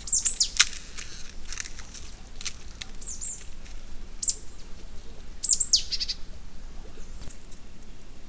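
Birds chirping: a few short, high calls that sweep downward, in clusters near the start, around three and four seconds in, and loudest again around five and a half seconds in.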